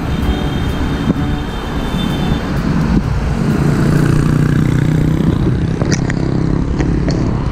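Road traffic noise with rumbling throughout; a motor vehicle's engine hum builds up past the midpoint, with a few sharp ticks near the end.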